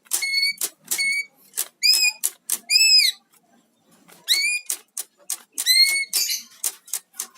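A cucak ijo (green leafbird) giving short, sharp, high-pitched notes in irregular strings, mixed with clicks from something rattled against the cage bars to provoke it. The calls are the agitated response that the rattling is meant to draw out.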